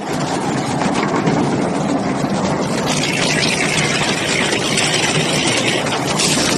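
Wood-processing machinery running: a debarker, chipper and shaker-screen line making a loud, steady mechanical din. The noise gets brighter and hissier about three seconds in.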